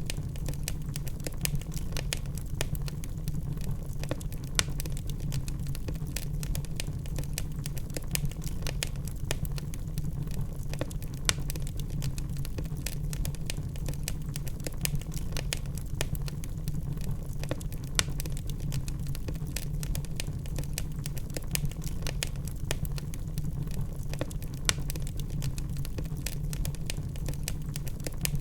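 Log fire burning in a fireplace: a steady low rumble with dense crackling and a few louder pops from the burning wood.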